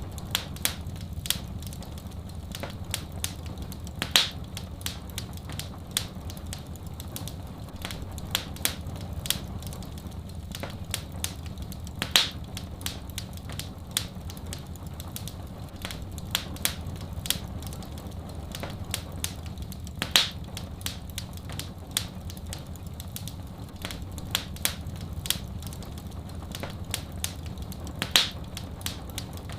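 Wood fire in a fireplace crackling, with many small sharp pops and a louder pop about every eight seconds, over a steady low rumble.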